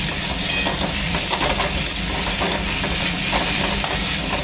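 Mashed potato masala frying in mustard oil in a metal kadai on high flame: a steady sizzling hiss, with a few light scrapes of the spatula against the pan as it is stirred.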